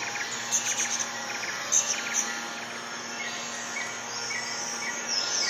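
Rainforest ambience: insects chirring steadily, with short bird chirps repeating about twice a second.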